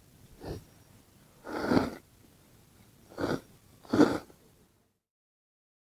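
Cup noodles being slurped: four short, noisy slurps. The sound then cuts off to silence near the end.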